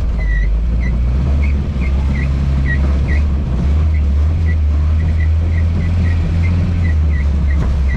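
Lada Niva engine running with a steady low drone, over a string of short high-pitched squeaks at about two to three a second.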